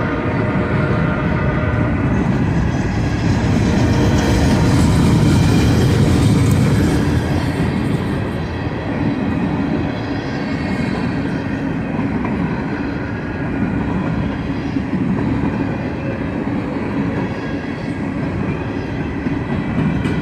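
Empty coal hopper cars of a freight train rolling past with a steady rumble and clatter of wheels on rail joints, a little louder about five seconds in.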